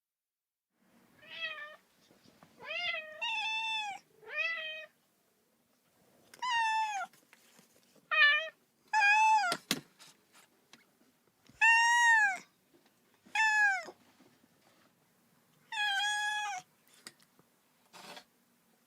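Kitten meowing over and over: about ten high-pitched meows, each rising then falling in pitch, with short gaps between them and a sharp click a little past halfway. The uploader hears it as a lonely kitten crying for its mother.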